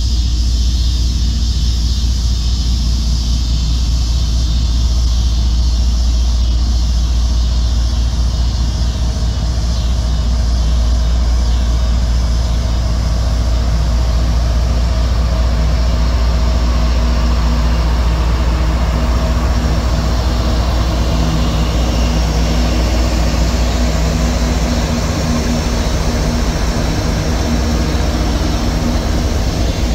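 Two CSX diesel-electric freight locomotives approaching and passing close by, with a steady deep engine rumble and low hum over a hiss of wheels on rail.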